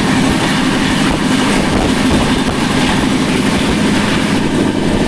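Duronto Express train running at speed: steady noise of wheels on the rails with a low hum.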